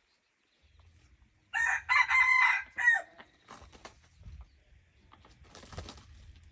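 A hybrid junglefowl rooster crowing once, a loud call of about a second and a half starting about one and a half seconds in.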